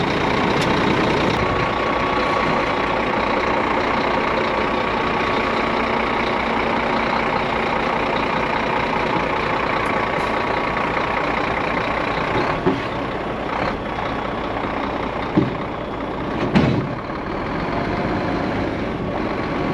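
Heavy diesel truck engine idling steadily on a jump start from jump leads, with a few short knocks in the last few seconds.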